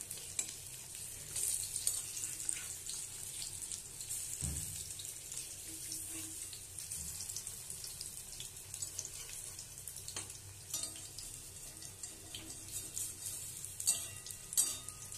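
Besan-battered bitter gourd slices deep-frying in hot oil in a steel karahi: a steady sizzle full of small crackles, with two sharper pops near the end.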